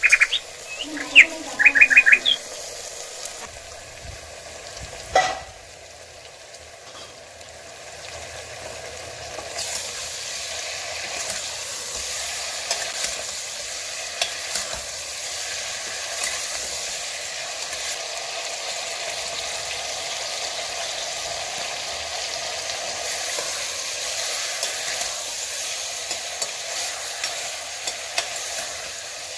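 Raw chicken pieces sizzling in hot oil in a pressure cooker while a ladle stirs them, the sizzle growing louder about ten seconds in. A few short sharp clicks come near the start and a single knock about five seconds in.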